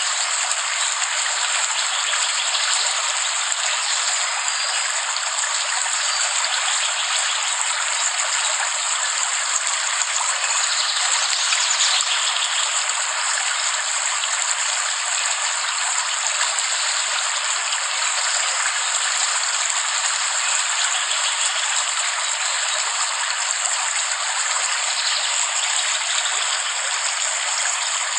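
Steady heavy rain falling: an even, unbroken hiss with no deep rumble and no separate drops or thunder standing out.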